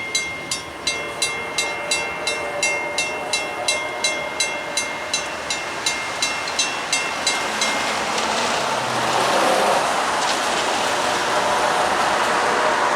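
Railroad crossing bells, electronic, ringing about three strikes a second, then cutting off about eight seconds in as the activation ends. A steady rushing noise of passing road traffic follows.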